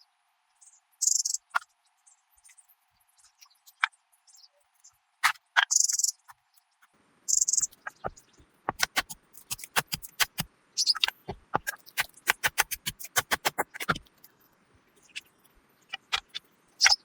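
Irregular sharp clicks and taps with a few short, high rustling hisses; about halfway through, the clicks come quickly, several a second, for some seconds.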